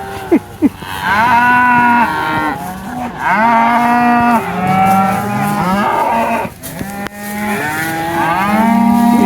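Cattle mooing: four long calls, some overlapping at different pitches, so more than one animal is calling. Two sharp clicks come just before the first call.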